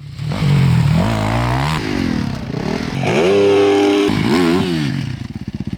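Motocross bike engine revving up and down several times, holding a high steady note for about a second in the middle. Near the end it eases off into slow, even firing pulses that fade away.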